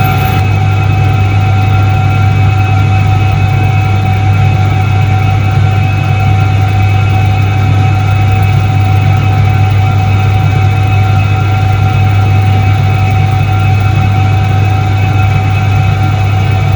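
Soviet ISET-3 washing machine from 1978 running: its electric motor gives a loud, steady deep hum with a thin higher whine over it, unchanging throughout.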